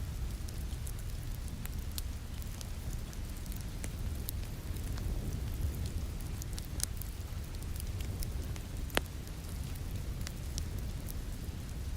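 Fireplace wood fire crackling over steady rain falling against a window: a continuous low rumble with scattered sharp pops and snaps, one louder pop about nine seconds in.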